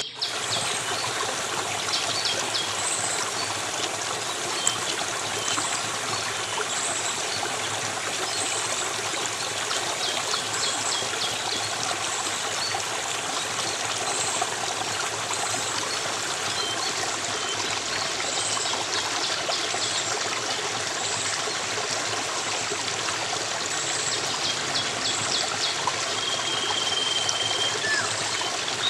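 Steady running water of a small stream, trickling and splashing evenly, with faint high chirps repeating about once a second over it.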